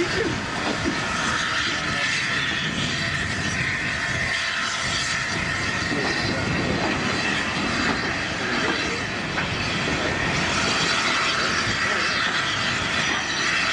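Steady rushing noise of a steam train at the station, with people's voices mixed in.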